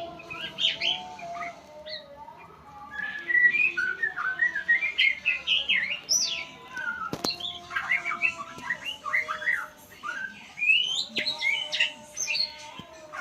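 Murai songbird (a magpie-robin or shama type) singing a fast, varied run of chirps, whistles and squawks, played as a master recording for teaching other songbirds their song. Fainter steady, wavering tones run underneath, and there is a single sharp click about seven seconds in.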